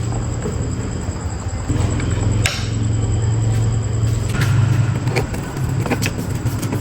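A steady low motor hum, with a few sharp clicks and taps over it and a brief brighter rasp about two and a half seconds in.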